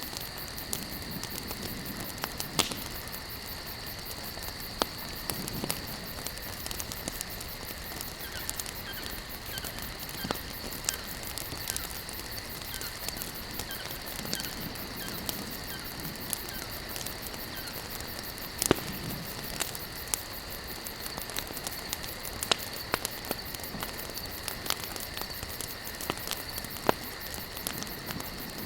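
Wood campfire burning, crackling with frequent sharp pops of varying loudness at irregular intervals, the loudest about two-thirds of the way through, over a steady high-pitched drone.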